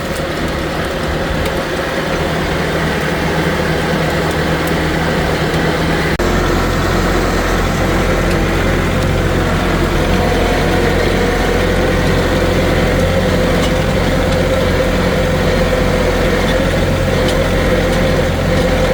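Kubota tractor's diesel engine running steadily. Its low hum changes abruptly about six seconds in.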